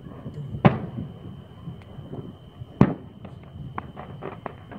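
Fireworks and firecrackers going off. There are two loud, sharp bangs, about half a second in and near three seconds, among scattered smaller pops and cracks.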